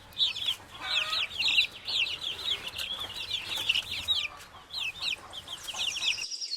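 A brood of domestic chicks peeping together: a dense, overlapping stream of short, high cheeps, each falling in pitch.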